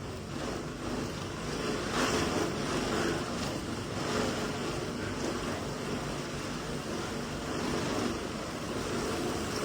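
A vehicle driving through floodwater: a steady rush of water and road rumble, with some wind on the microphone.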